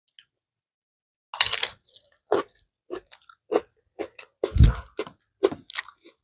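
A person chewing food close to the microphone, with crisp crunches. It starts about a second in and runs in a string of short bites and chews, one or two a second.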